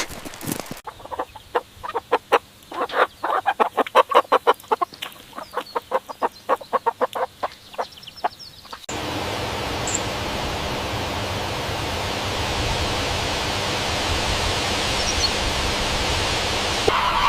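Chickens clucking, a quick run of short calls several times a second for about eight seconds. Then an abrupt cut to a steady hiss.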